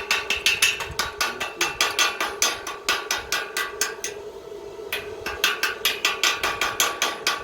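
A hammer tapping fast on the welded iron gate, about five blows a second with a ringing metal tone, stopping briefly about four seconds in and then going on.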